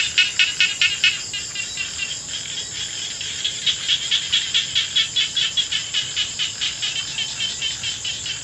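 Rice-field chorus after rain: a steady high-pitched insect drone under a loud pulsing call repeated about five times a second. The pulsing weakens after about a second and returns strongly about halfway through.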